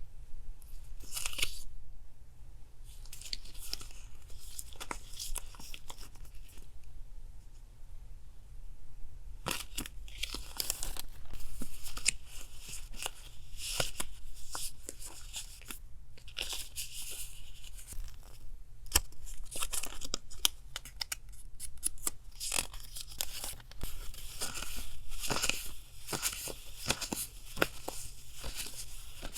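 Paper being torn and handled in short, irregular rips and crackles, with sharp little clicks between them and a quieter stretch early on. A steady low hum from a refrigerator runs underneath.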